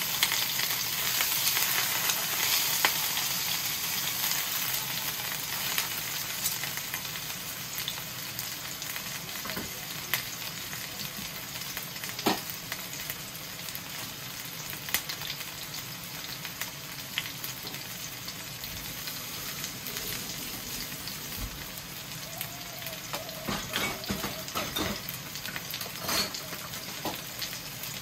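String-tied rolled chicken sizzling in oil in a frying pan, a steady frying hiss with scattered small pops and crackles. The sizzle is loudest at first and settles lower over the following seconds.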